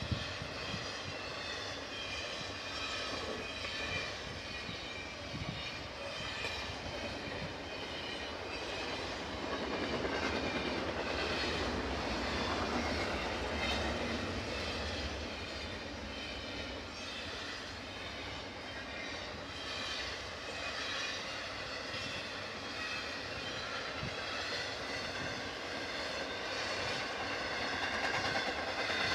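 Freight train rolling past: a steady rumble of steel wheels on the rails, with scattered clicks over rail joints. It grows louder about ten seconds in.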